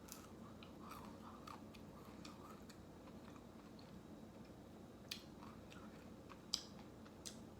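Faint close-up mouth sounds of eating ice cream: soft smacking and swallowing, then three short sharp clicks in the later half.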